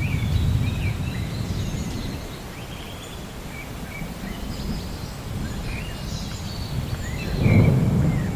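Low rolling rumble of distant thunder, easing off in the middle and swelling again near the end, with small birds chirping throughout.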